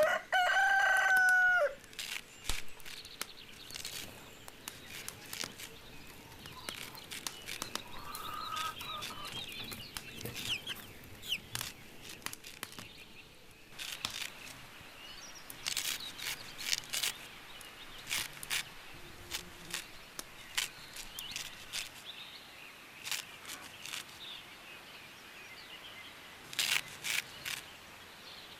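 A rooster crows once at the very start, a loud pitched call of about a second and a half that falls away at the end. Scattered sharp clicks and knocks and faint high chirps follow.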